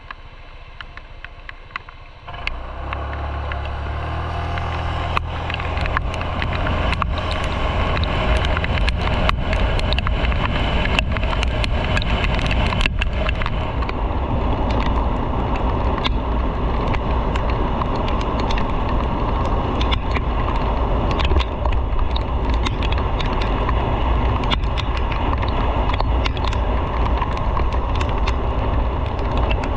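Motorcycle pulling away about two seconds in, its engine note climbing in steps as it accelerates. Then steady riding at speed, with loud rushing wind noise over the engine.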